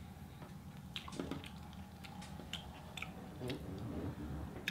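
A person chewing food close to the microphone, with short, soft mouth clicks scattered through the chewing.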